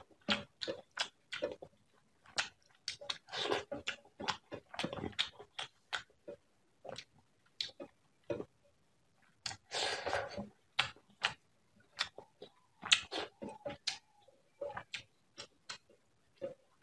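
Close-miked eating of rice and prawn curry by hand: wet lip-smacking clicks of chewing, with a few longer stretches of moist chewing noise.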